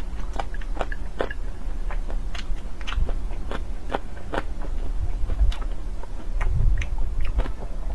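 A person chewing soft boiled dumplings: irregular wet mouth clicks and smacks, several a second.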